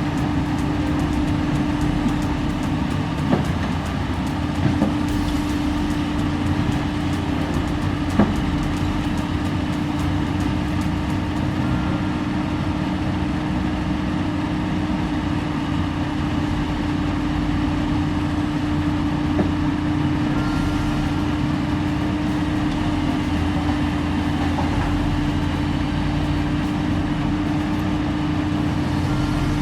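Heavy diesel engine running steadily with a constant drone, and a few sharp knocks a few seconds in.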